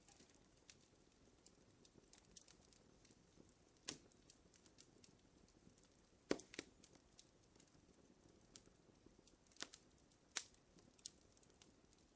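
Wood fire crackling in a fireplace: faint, irregular sharp pops and snaps over a soft low hiss, with the loudest pop about six seconds in.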